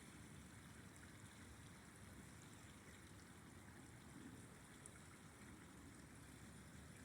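River water flowing, a faint steady rushing.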